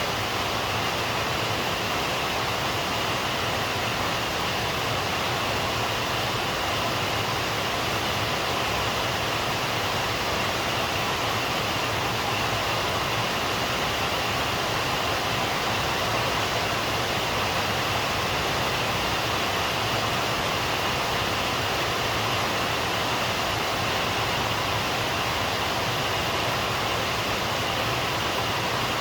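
Steady rain falling, an even hiss without breaks or any thunder.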